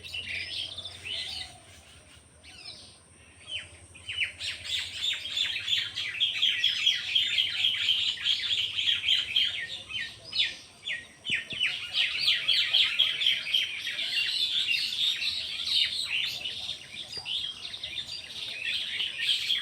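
Many small birds chirping and twittering together, a few scattered calls at first, then a dense, busy chatter of quick notes from about four seconds in.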